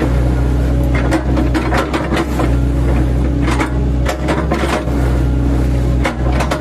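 Engine of an 8-ton class mini excavator running steadily under load while its bucket, fitted with chipping blades, chops oil palm trunks: clusters of sharp knocks and cracks from the blades biting into the wood, every second or so.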